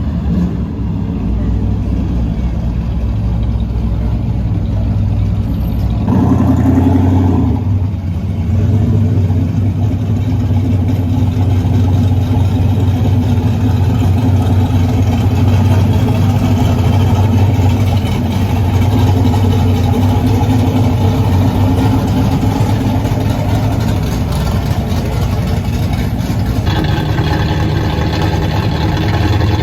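A car engine running steadily at low revs, its pitch shifting about six seconds in and again near the end.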